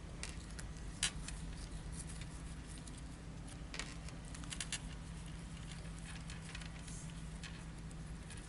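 Trading cards being handled and flipped through: scattered light clicks and taps of card stock, the sharpest about a second in, over a steady low hum.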